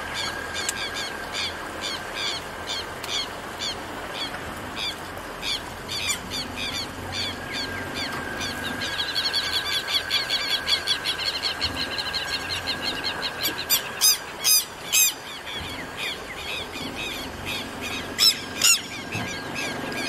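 Wild birds calling: a run of short high chirps about twice a second, a fast trill about halfway through, and a few sharper, louder calls near the end, over a thin steady high whine.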